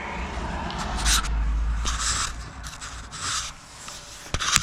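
Mazda Miata four-cylinder engine running rough, sounding like it is down a cylinder, under irregular rubbing and scraping noise. A low rumble is strongest in the first couple of seconds.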